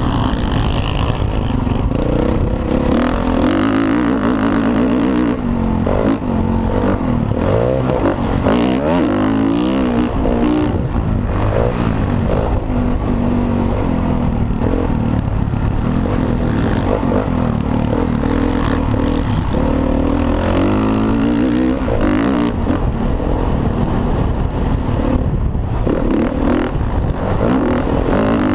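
Motocross dirt bike engine under hard riding, its pitch repeatedly rising and falling as the throttle is opened and closed, with rattling and clatter throughout.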